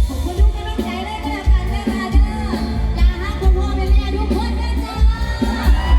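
Live band music with a steady, heavy bass beat and a melody line over it.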